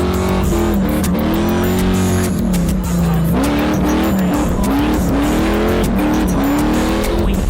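Supercharged V8 of a Hellcat Redeye drift car revving hard in third gear. Its pitch sags about two seconds in, then climbs and drops again and again as the throttle is worked through the slide.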